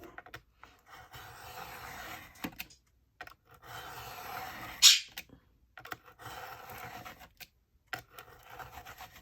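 Paper being cut, in three long rasping strokes of a second or two each, with a sharp click about five seconds in.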